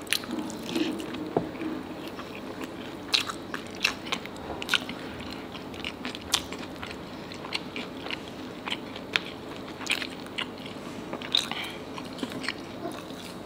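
Close-miked chewing of a hard, crunchy mouthful of food, with irregular sharp crunches throughout.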